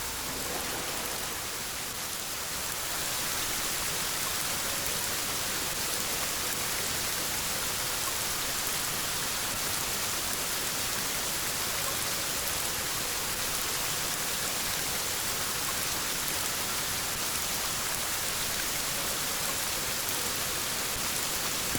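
Heavy typhoon rain falling steadily, a dense even hiss that grows slightly louder about three seconds in.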